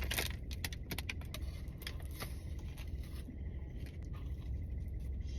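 Close-up chewing of a flaky croissant: a string of small crackling clicks over a steady low hum, thinning out after about three seconds.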